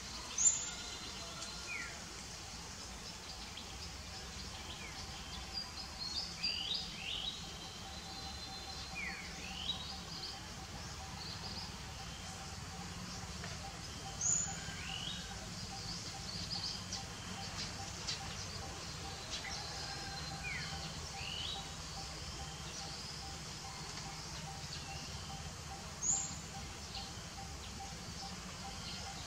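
Birds chirping in short, high calls scattered throughout, a few of them sharper and louder than the rest, over steady outdoor background noise.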